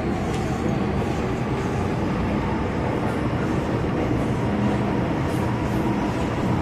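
MTR Kwun Tong Line M-Train, a Metro-Cammell electric multiple unit, running along the line: a steady rumble of wheels and running gear with a faint low hum.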